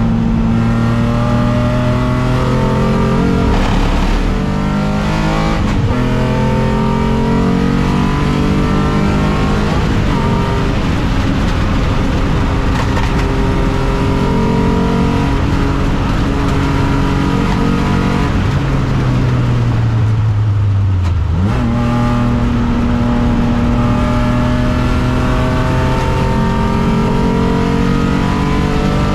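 Alfa Romeo 156's 3.0 V6 race engine running hard, its pitch climbing and stepping through gear changes. About 20 seconds in the revs fall away steeply, then jump back up as it pulls again.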